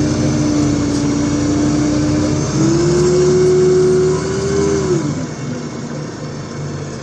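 LiAZ 5292.65 city bus drivetrain under power, with a steady whine that steps up in pitch about two and a half seconds in and then drops away about five seconds in as the level falls off.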